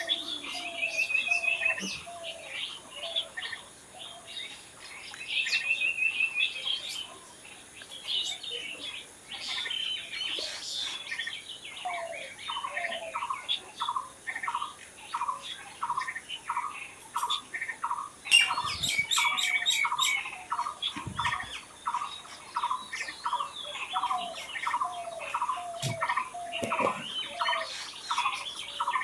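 Several wild birds singing and calling together, with short chirps and quick trills. From about twelve seconds in, one bird keeps up a steady run of repeated notes, about two a second.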